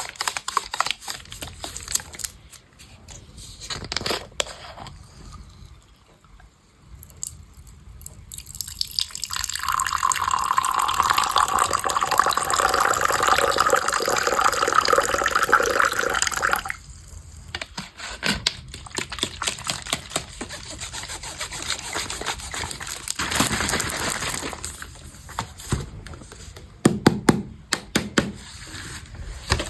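Water running or being poured for about seven seconds, a steady rush that starts about a third of the way in and stops abruptly. Light sharp taps and clicks come before and after it.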